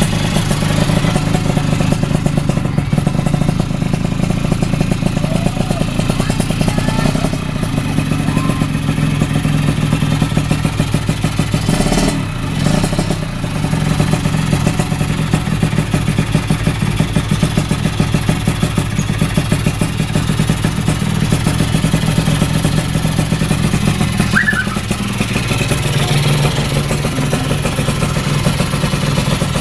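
A 116cc two-stroke drag-race motorcycle engine running at a steady speed, with a short dip about twelve seconds in, while its carburettor is being set.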